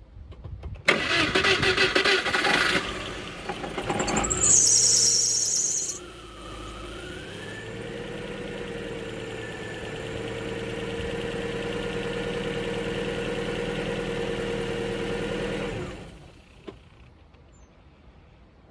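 Rover 25's 1.4-litre 16-valve twin-cam engine being started: a few seconds of cranking, then it catches and revs. It settles into a steady idle and is switched off about 16 seconds in.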